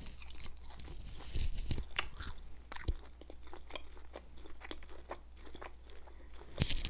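Close-miked chewing of a mouthful of noodles: irregular soft clicks and small crunches of mouth sounds.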